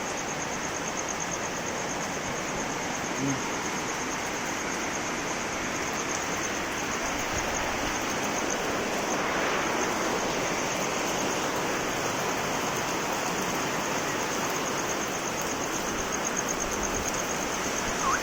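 Steady rainfall, an even hiss of falling rain with no break, growing a little fuller about halfway through. A constant high-pitched trill runs under it throughout.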